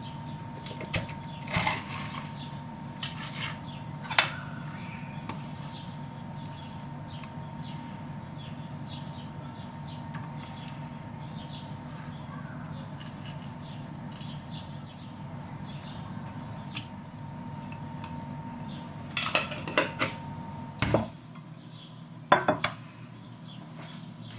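Dishes and cutlery clinking and knocking now and then in a kitchen, a few sharp strikes near the start and a cluster near the end, over a steady low hum.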